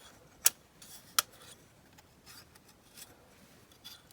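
Two sharp clicks, about half a second and a second in, with faint rubbing between them as a small die-cast model car and its parts are handled.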